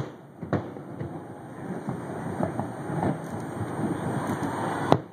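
A distant aerial fireworks display: sharp bangs at the start, about half a second in, a few more in the middle, and a loud one near the end, over a continuous rumbling crackle of further bursts.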